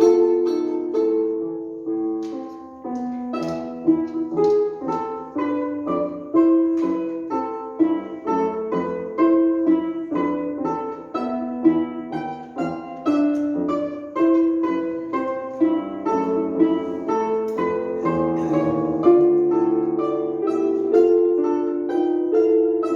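Instrumental music: a steady-paced melody of separate notes, each struck or plucked and then fading.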